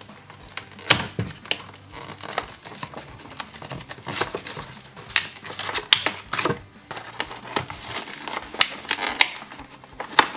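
Toy packaging being handled and pulled apart: plastic and cardboard crinkling and crackling in irregular sharp snaps.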